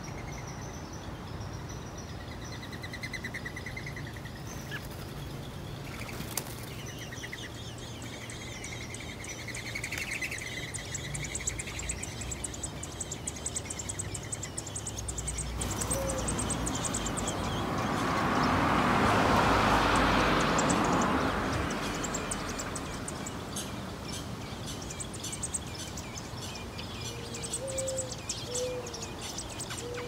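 Birds chirping: thin, high, rapid chirps throughout, with a few short warbled phrases in the first several seconds. Midway, a rushing noise swells up, becomes the loudest sound for a few seconds, then fades.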